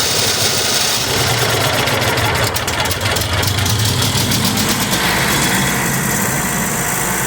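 Generac QuietPact 40 RV generator running just after starting, its engine belt-driving the generator head at low speed, a pretty quiet steady drone. The running note evens out about five seconds in.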